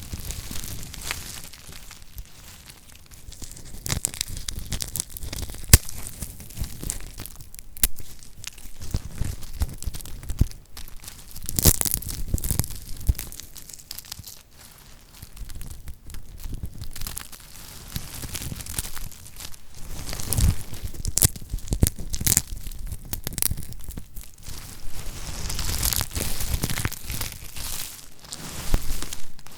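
Lacquered soap being cut with a knife, its hard coated surface crunching and crackling in many irregular sharp clicks.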